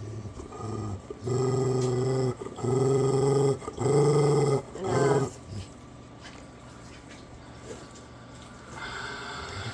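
A bully-breed dog's low, drawn-out growling rumble while being petted: four long growls of about a second each in a row, the last one wavering in pitch, the affectionate "purr" the dog makes rather than an aggressive growl.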